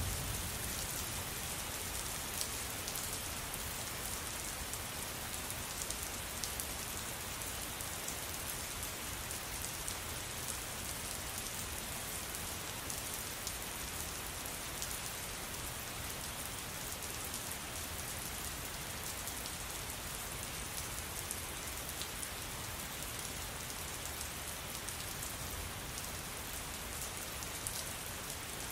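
Steady rain falling on a surface, a continuous hiss with many small drop impacts; no thunder.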